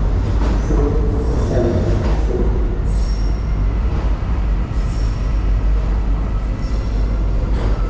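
Docklands Light Railway train running at the station, a loud steady low rumble with a few brief high wheel squeals.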